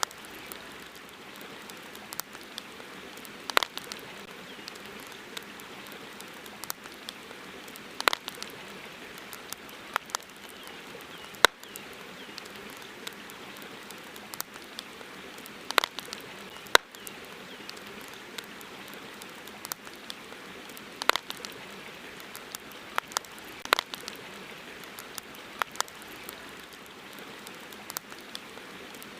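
Wood campfire crackling, with irregular sharp pops and snaps every second or two, a few much louder, over a steady hiss.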